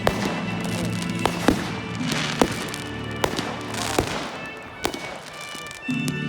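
Fireworks going off: several sharp bangs with crackling bursts, over background music.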